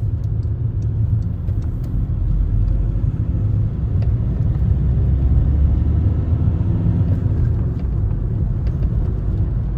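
Car interior noise while driving: a steady low rumble of engine and road.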